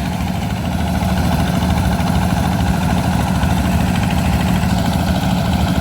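An engine running steadily and close by, with a deep, even hum.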